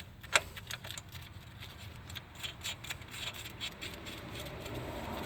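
Metal clicks and clinks of hand tools and hardware while the ball-joint pinch bolt and its locking nut are fitted, with one sharper knock about half a second in and a scatter of smaller clicks after it.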